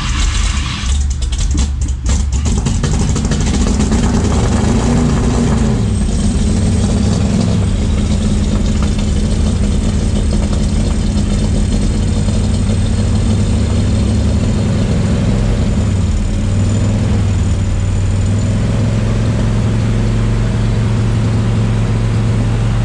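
Ford 302 small-block V8 crate engine catching about two seconds in, revving up and back down briefly, then running steadily on its first start. It is not idling properly because the carburetor has not yet been adjusted.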